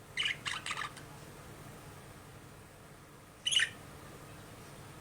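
Budgerigar chirping: a quick run of four short chirps, then a lull and one sharp, louder chirp about three and a half seconds in.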